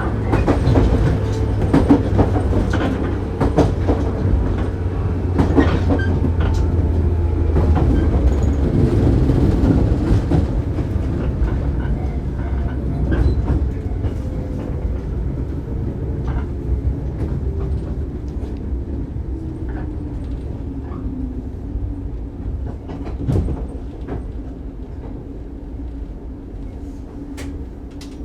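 Shinano Railway 115-series electric train heard from inside the car. The wheels clack over rail joints, and the motor and gear hum slowly drops in pitch and level as the train slows.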